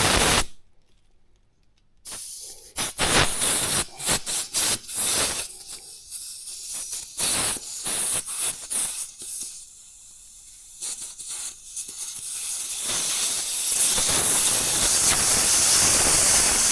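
Air hissing out of a motorcycle inner tube's valve as the tube is let down: a short burst at the start, a run of short hisses from about two seconds in, then a steady hiss over the last few seconds.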